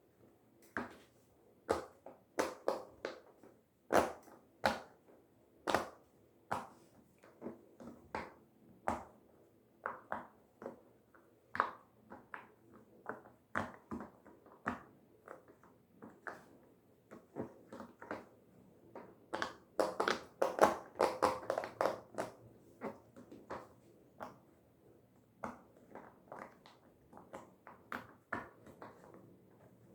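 Silicone pop-it fidget toy bubbles being pressed one after another, each giving a short pop, at an uneven pace of about one or two a second, with a quick run of pops a little past the middle.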